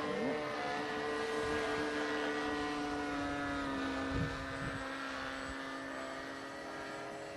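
Radio-controlled model airplane's engine running steadily in flight, its pitch dropping slightly a little past halfway as the plane passes.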